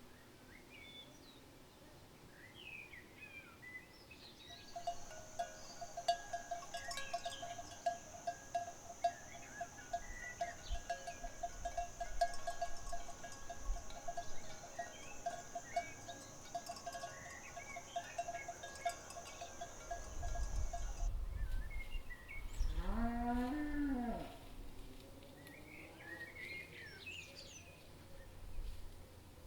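A cow moos once, a long call that rises and then falls, about two-thirds of the way in. Before it, a steady high hiss with a pulsing lower tone runs for about sixteen seconds and then cuts off suddenly, while small chirps come and go throughout.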